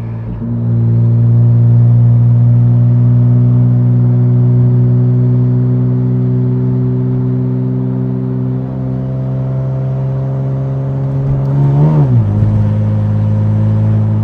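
Infiniti Q60's twin-turbo V6 with exhaust dumps, heard from inside the car, running steadily under light load with its pitch slowly rising. About twelve seconds in the engine speed drops sharply, with a brief rough crackle, then it settles into a lower steady drone.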